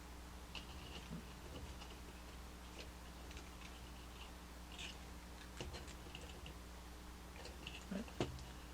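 Faint, scattered clicks and taps of small plastic HexBug Junk Bots toy parts being handled and fitted together, over a steady low hum.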